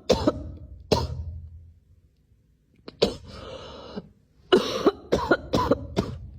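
A series of short coughs: one at the start, one about a second in, one about three seconds in, then a quick run of about five near the end.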